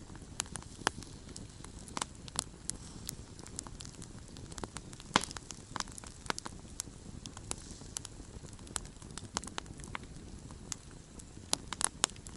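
Campfire burning, with irregular sharp crackles and pops from the wood over a soft steady hiss; the loudest pop comes about five seconds in, and a quick run of pops near the end.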